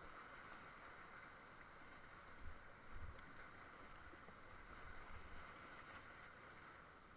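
Faint, steady rush of whitewater in a glacier creek, with a few low thumps near the middle.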